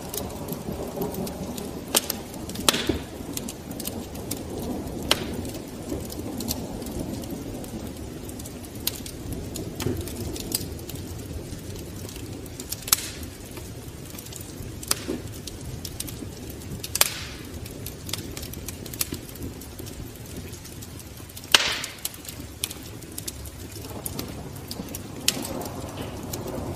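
Wood fire crackling in a fireplace: irregular sharp pops and snaps over a steady low rumble of the flames, with a few louder cracks now and then.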